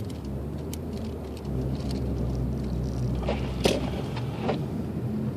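Cabin noise of a Lexus IS250 AWD driving slowly on a snow-covered road: a steady low road and engine rumble. About three seconds in, a few short knocks and clicks come over it, the loudest just before the four-second mark.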